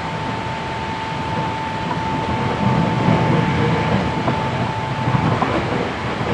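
Interior running sound of a Hankyu 7300 series electric train with Toyo SCR field-chopper control and DC compound motors, heard from the car floor: steady wheel and rail rumble under way, heavier in the middle, with a few light clicks. A steady high whine runs along with it and cuts out about five seconds in.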